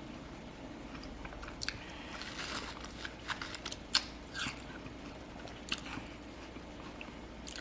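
A person eating juicy watermelon: wet bites, chewing and slurping, heard as scattered short smacks. The loudest smack comes about four seconds in.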